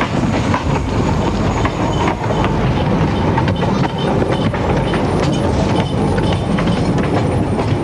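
A train running along the track: a steady rumble with frequent wheel clicks over the rails.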